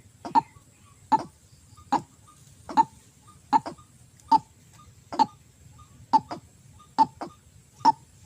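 White-breasted waterhen calls: a steady run of short, sharp, harsh notes, about ten of them spaced under a second apart, the call used to lure waterhens.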